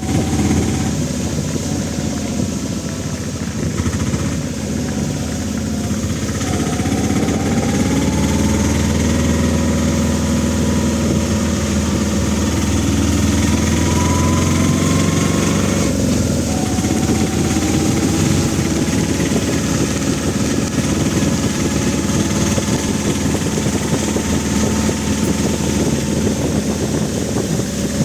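A vehicle engine running steadily, with its pitch slowly climbing in stretches and a sudden change in tone just past the middle.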